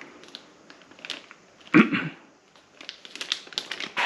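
Plastic packaging and wiring harnesses being handled: crinkling and light clicks of plugs and cables, with one louder bump about two seconds in.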